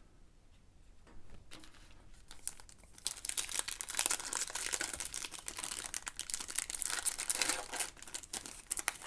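Plastic wrapper of a trading card pack crinkling as it is torn open and peeled off. The crinkling is faint at first, turns loud and dense about three seconds in, and eases off near the end.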